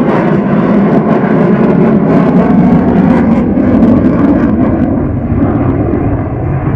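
Loud, steady jet noise from a Boeing F/A-18 Super Hornet's twin General Electric F414 turbofan engines in flight, easing slightly near the end.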